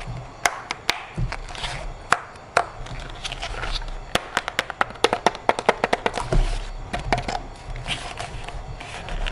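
A series of sharp clicks and taps, with a quick run of them about halfway through.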